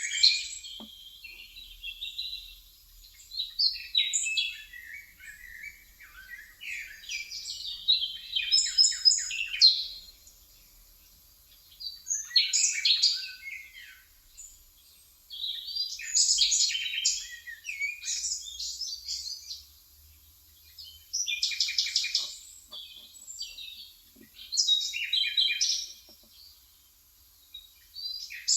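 Birdsong: bouts of quick chirps and rapid trills a few seconds long, with short pauses between them.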